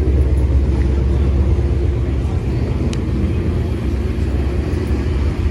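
Car engine running with a steady, choppy low rumble.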